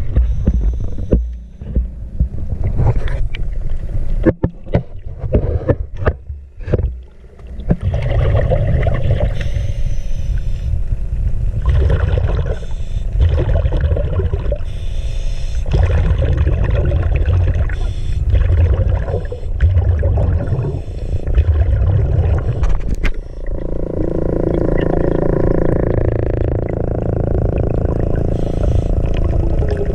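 Ski boat running on the water: a heavy low rumble with choppy knocks and bumps in the first few seconds, settling into a steadier run after about twenty-three seconds.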